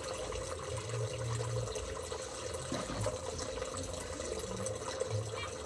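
Water running steadily over a low, constant hum.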